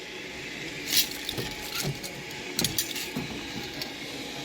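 A few sharp clinks and clicks over a steady hiss, the loudest about a second in and another cluster a little past halfway.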